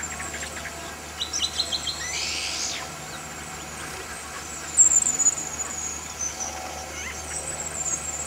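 Wild birds calling and singing outdoors. A quick run of about five short notes comes a little over a second in, then a falling sweep, and from about halfway a long series of high, thin chirps.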